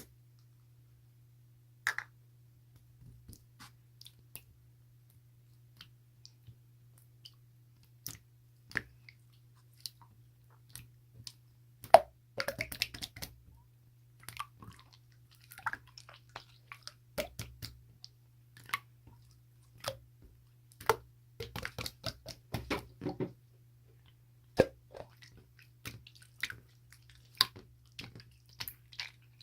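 Irregular small clicks, taps and soft squishy handling noises close to the microphone, thickest in two busy stretches, over a faint steady low hum.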